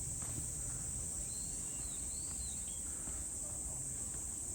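Steady, high-pitched insect chorus, with a few faint short bird chirps about a second and a half to two and a half seconds in, over a low background rumble.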